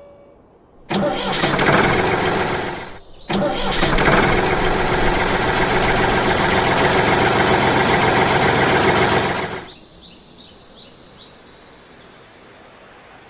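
An engine starting abruptly about a second in, dying away and cutting out after about two seconds, then starting again at once and running steadily for about six seconds before stopping abruptly. Faint bird chirps follow.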